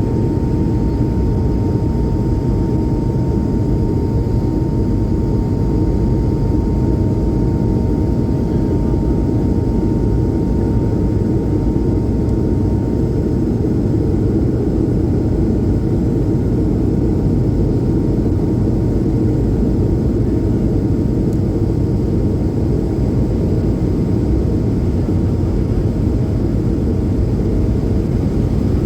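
Steady cabin noise of an Airbus A220 jet airliner under power: a deep, even roar from its Pratt & Whitney geared turbofan engines and the airflow, with a faint steady whine that fades over the first half.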